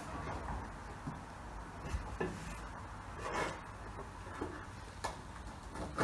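A few scattered short knocks and a brief scraping noise over a low steady rumble.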